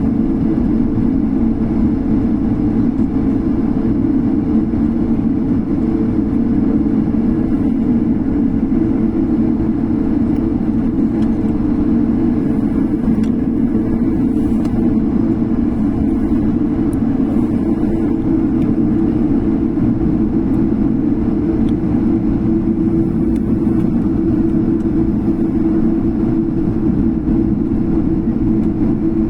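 Korean Air jet airliner's engines running with a steady drone and a constant low hum, unchanging throughout.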